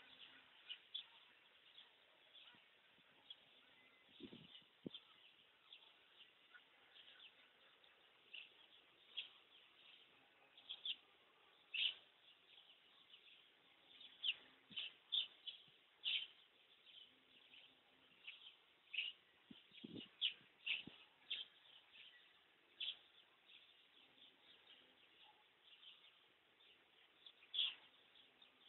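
Birds chirping on and off, faint, with short scattered calls.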